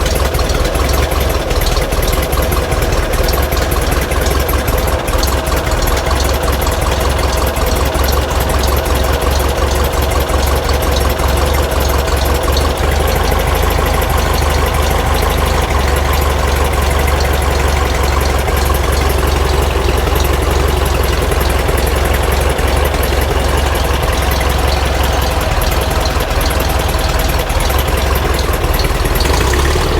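Rebuilt air-cooled flat-four engine of a 1950s VW Bus running steadily at idle. It carries a noise that the owner thinks might need a valve adjustment or come from an exhaust leak at a heater box.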